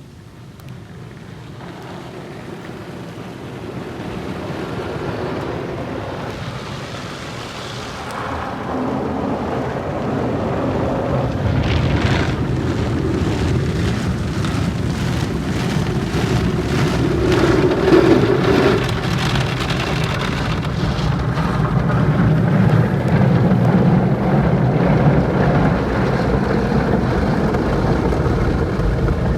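Car wash: water spraying against a car with the wash machinery running, a steady rushing noise that builds up over the first ten seconds or so and then holds.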